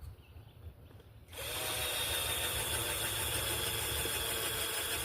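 Power drill starting up about a second in and then running steadily, likely pre-drilling holes in the hive's wood, after a few quiet knocks.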